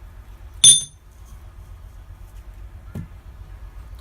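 A single sharp metal-on-metal strike with a brief high ring, then a faint knock about two seconds later.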